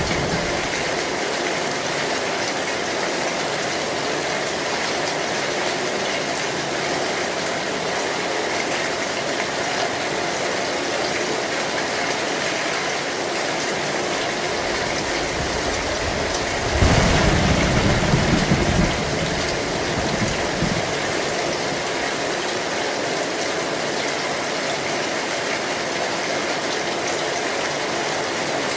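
Steady heavy rain on an old zinc metal roof, with one low rumble of thunder lasting about two seconds a little past halfway through.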